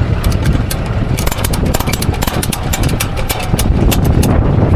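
Tow truck engine idling with a steady low rumble, under a run of rapid, irregular sharp clicks that stop shortly before the end.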